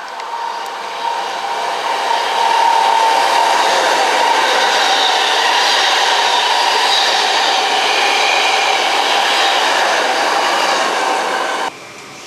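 Electric passenger train passing close at speed: a loud, steady rush of wheels on rails with whining tones. It builds over the first two seconds and cuts off suddenly near the end.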